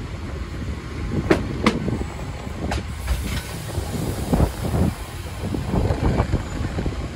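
Narrow-gauge train rolling on rails, a steady low rumble with a few sharp wheel clicks in the first three seconds.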